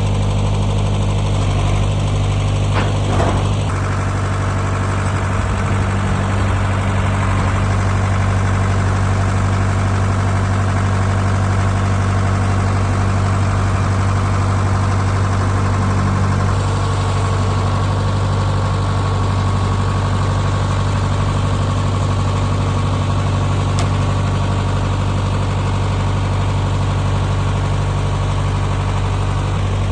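Farm tractor engine running at a steady speed while it works to lift and flip over a heavy shelter.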